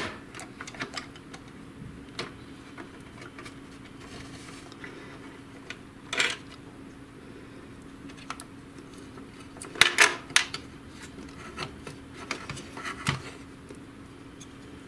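Plastic and metal parts of an HP DeskJet GT 5820 printer clicking and clattering as its roller shaft and mechanism are handled and pulled out, in scattered knocks that are loudest at the very start, about six seconds in and about ten seconds in. A faint steady hum runs underneath.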